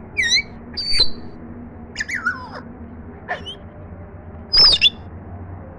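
African grey parrot making a string of short whistles, squawks and gliding calls, the loudest near the end.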